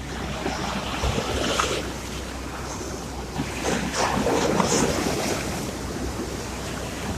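Sea surf: waves washing in and drawing back, swelling once about a second in and again around four seconds.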